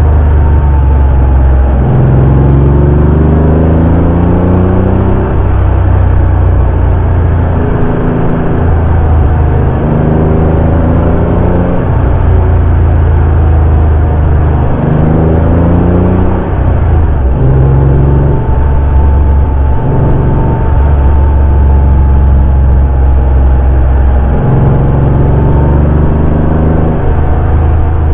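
Porsche 911 (964) air-cooled flat-six engine under way, the revs climbing and then dropping at a gear change several times over, with steady running in between.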